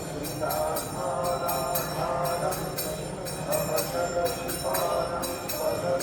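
Temple bells struck in a steady rhythm for the morning arati, about three ringing strikes a second, over a crowd of voices.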